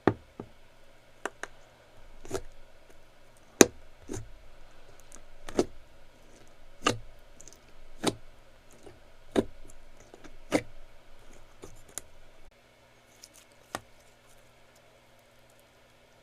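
Clear slime being squeezed and pressed by hand, giving sharp popping clicks about once a second. After about twelve seconds the pops stop and only small faint crackles remain.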